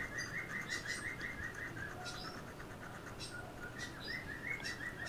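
Faint bird chirping: a rapid run of short, repeated chirps, about six a second, with higher calls now and then.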